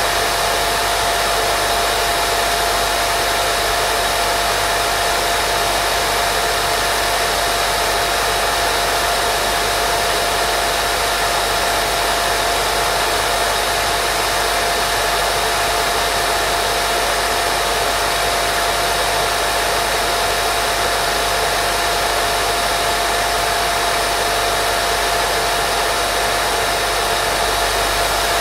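Steady, unchanging white noise for baby sleep: an even hiss with a thin steady tone running through it.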